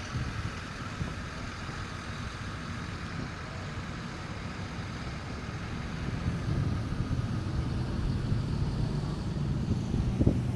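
Car driving, with a steady low rumble of engine and road noise that grows a little louder about halfway through.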